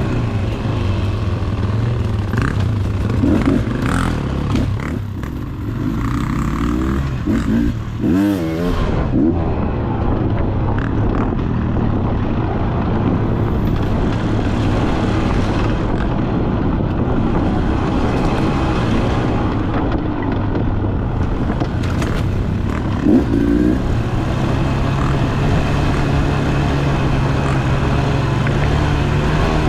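Two-stroke dirt bike engine running, its revs rising and falling a few times and settling at a higher steady pitch near the end.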